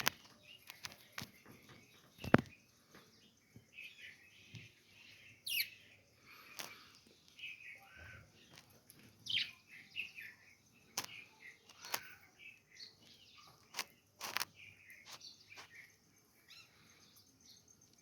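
Budgerigars chirping in short, scattered calls, with a few sharp clicks or taps among them, the loudest about two seconds in.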